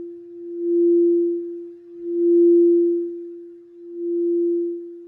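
Singing bowl sounding one sustained, steady tone that swells and fades in slow waves about every second and a half, as when the bowl is rubbed around its rim.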